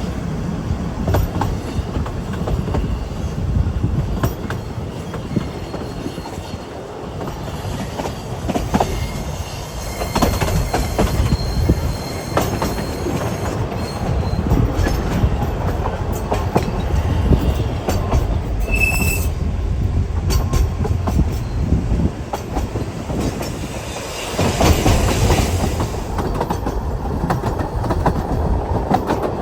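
Ffestiniog Railway narrow-gauge train running, wheels clattering over the rail joints with a faint, intermittent wheel squeal, and a louder surge near the end.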